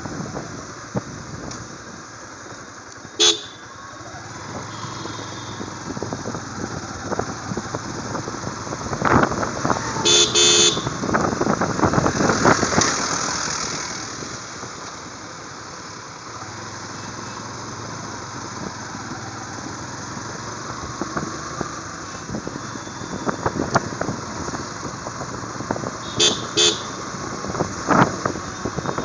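Riding through street traffic on a motorcycle, with engine and road noise and wind on the microphone. Short vehicle horn toots sound about three seconds in, several quick ones about ten seconds in, and two near the end.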